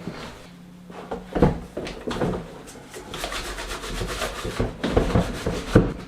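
Small parts of a Smiths heater fan motor being handled on a workbench: irregular knocks and clicks with rubbing and scraping between them.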